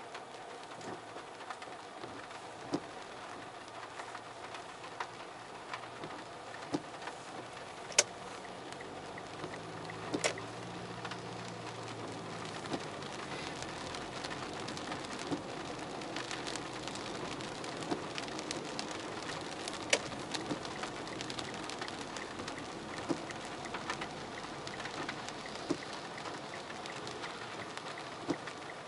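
Steady rain with scattered sharp drips, growing slightly louder about halfway through; a faint low rumble comes in about a third of the way in.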